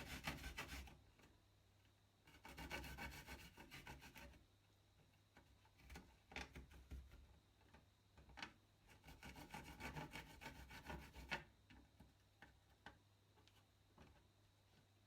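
A garlic clove is rubbed back and forth on a grater in quick rasping strokes. It comes in three short spells with pauses between, and light clicks and taps fall in the gaps.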